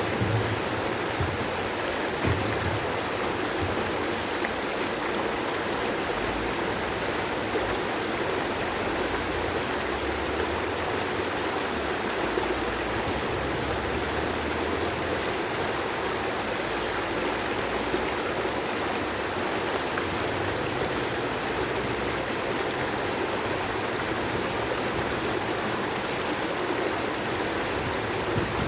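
Stream water flowing steadily, an even unbroken rush of running water.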